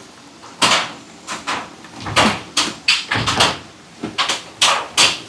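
An irregular run of sharp knocks and clatters, about a dozen in five seconds, some closer together than others.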